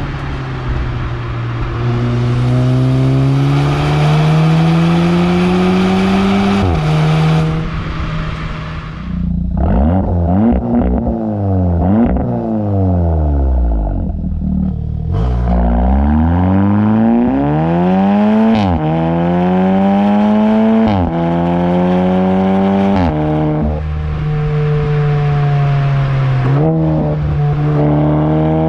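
Audi S3's turbocharged four-cylinder engine and exhaust under hard acceleration, revs climbing through the gears with a sharp drop in pitch at each of several upshifts. About a third of the way in the revs fall away, then climb again.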